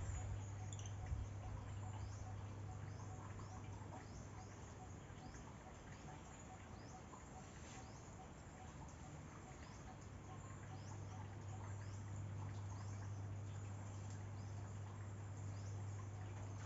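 Small birds chirping over and over in short, high, downward-sliding notes, over a steady low hum.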